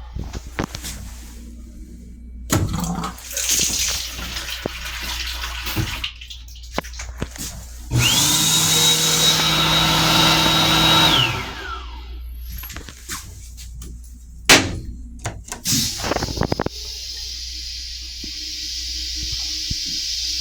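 Train restroom toilet flushing: a loud rush of about three and a half seconds, starting about eight seconds in, with a steady high whine that drops in pitch as it stops. Clicks and knocks come before and after it, and a steady hiss builds near the end.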